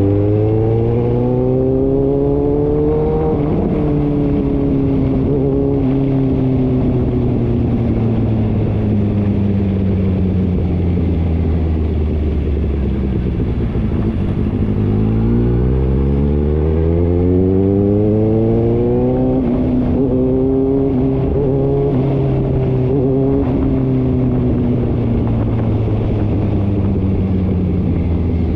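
A motor vehicle's engine running continuously, its pitch rising over the first three seconds or so, falling slowly until about fourteen seconds in, rising again until about nineteen seconds, then easing down with small wavers.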